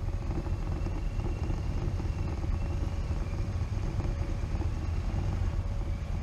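Motorcycle running at low speed with a steady low rumble.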